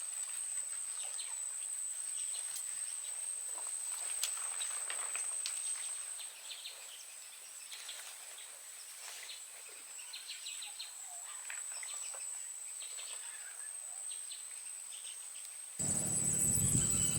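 Outdoor ambience: an insect's steady high-pitched buzz with scattered bird chirps. Near the end a louder, even noise begins abruptly.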